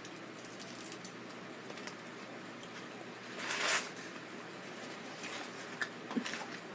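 Soft mouth sounds of a person chewing a bite of taco, with small crackles and clicks, and a short louder hiss about three and a half seconds in.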